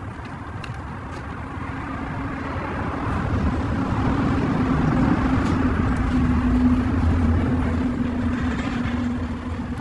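A motor vehicle's engine with a steady low hum. It grows louder over several seconds and eases off near the end, like a vehicle going by.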